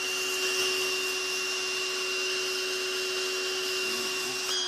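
Pressure washer running, a steady hiss of spray over a steady motor whine; the pitch shifts just before the end.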